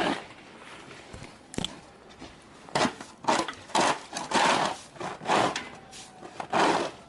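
Footsteps crunching through fresh snow, about two steps a second, with plastic bags worn over the boots rustling at each step.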